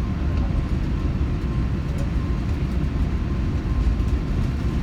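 Steady low rumble of an Airbus A380's Rolls-Royce Trent 900 engines and rushing air, heard inside the passenger cabin.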